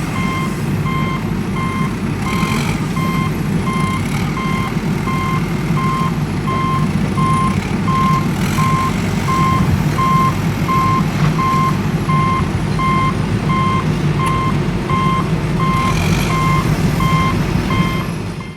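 Reversing alarm beeping about twice a second over a steadily running vehicle engine.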